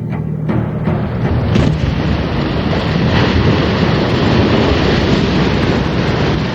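Rushing noise of open-sea waves and wind, swelling in about half a second in and then holding steady.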